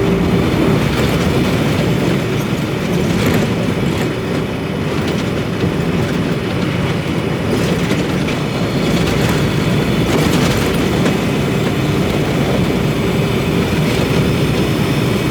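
Steady drone of a semi truck's engine and tyres heard from inside the cab while driving at highway speed.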